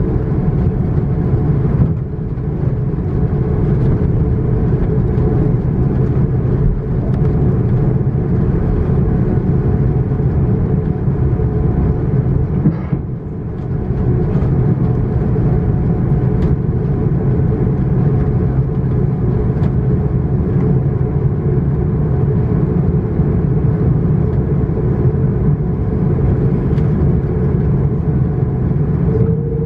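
Airbus A330-900's Rolls-Royce Trent 7000 engines and rushing air heard inside the cabin during takeoff: a loud, steady noise with a steady hum. It drops briefly about 13 seconds in, and a hum starts rising slightly near the end.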